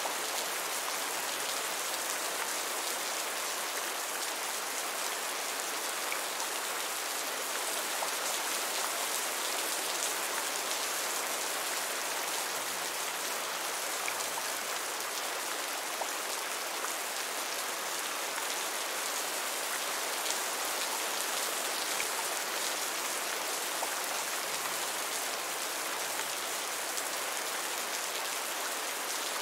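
Heavy rain falling steadily: an even hiss that does not change, with scattered faint ticks of single drops.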